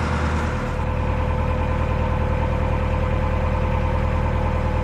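Narrowboat engine running steadily under way, with a quick, even beat.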